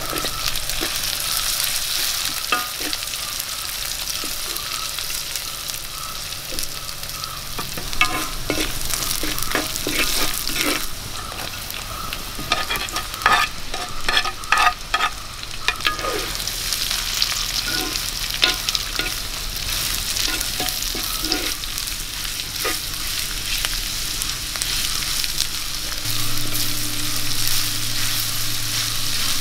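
Oil sizzling in a pan as curry leaves and green chillies fry, stirred with a wooden spatula. Partway through come a run of sharp clicks and scrapes as sliced onions go in and are turned, and the sizzling carries on under the stirring.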